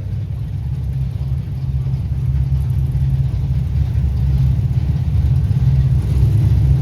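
Car engine running at low revs with a steady low rumble, growing slowly louder.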